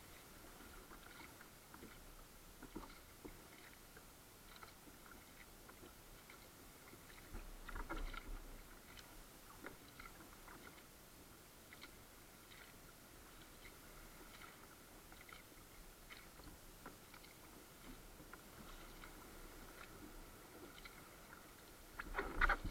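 Kayak on the water: faint irregular ticks and drips of water against the hull and paddle, with two louder splashy swells, about eight seconds in and near the end.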